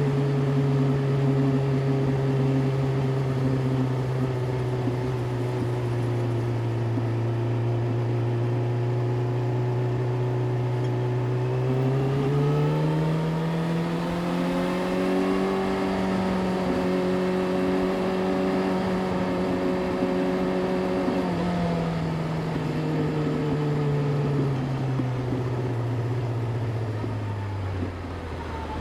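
Yamaha YZF-R6's inline-four engine running at steady low revs. The revs rise smoothly about twelve seconds in, hold there for several seconds, then ease back down and drop lower near the end.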